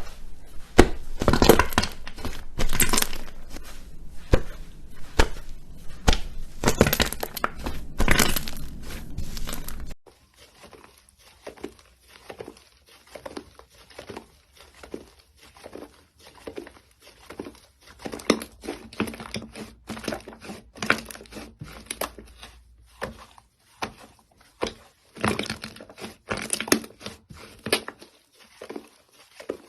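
Slime being squeezed and poked by hand, a rapid crackle of clicks and pops. About ten seconds in it cuts to a quieter, sparser run of popping clicks.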